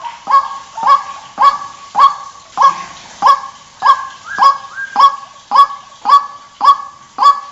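White-breasted waterhen calling a monotonous, loud series of short 'kwak' notes, about two a second, each one sharply rising in pitch.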